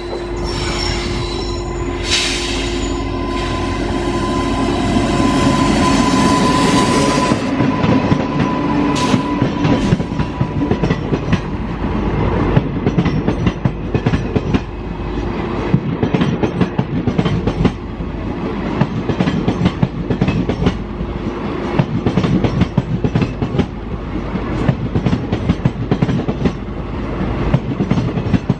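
A train running past at speed. For the first ten seconds or so a steady high tone rides over the rumble, then the wheels clatter over the rail joints in quick, continuous clicks.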